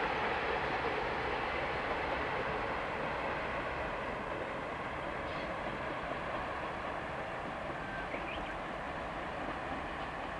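Diesel railcar running along the track: a steady rumble and rail noise that slowly gets quieter.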